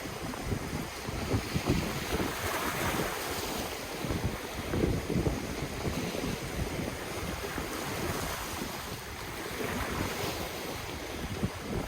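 Ocean waves washing in, a steady surf noise that swells twice. Wind buffets the microphone in frequent low thumps.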